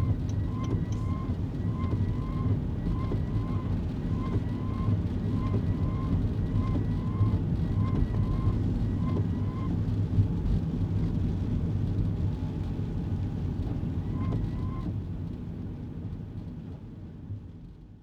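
Kei car driving, heard from inside the cabin: steady engine and road rumble. A faint repeating tone pulses about twice a second over the rumble for roughly the first half. Everything fades out over the last few seconds.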